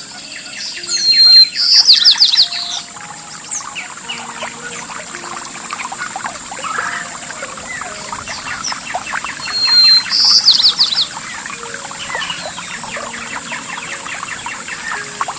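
A songbird singing two phrases about eight seconds apart, each a short high whistle running into a rapid trill, over a continuous trickle of water.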